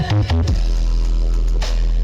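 Electronic dance music played loud through a large carnival sound system: a few quick stuttering hits, then a long held, very deep bass note from about half a second in.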